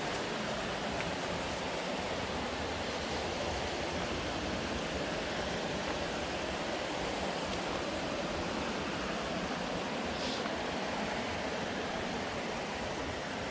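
Steady rushing noise of flowing water, even and unbroken, with a brief faint rustle about ten seconds in.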